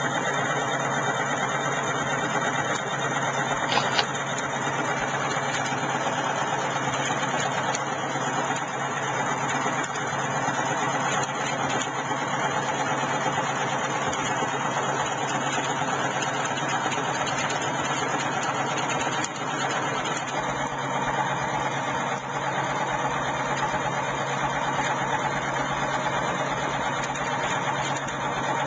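Prototype coil-driven magnet-rotor electric motor running steadily with a continuous hum and whir, with a brief click about four seconds in.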